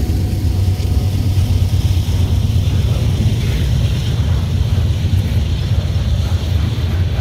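Freight train of covered hopper cars rolling past close by: a steady, loud low rumble of steel wheels on the rails.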